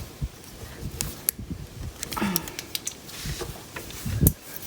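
Hand tools and parts being handled during lawnmower wiring work: scattered sharp clicks and light knocks, with a louder knock about four seconds in.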